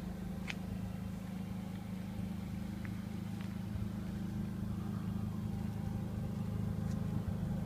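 Truck engine running steadily with a low, even hum, with a few faint short clicks over it.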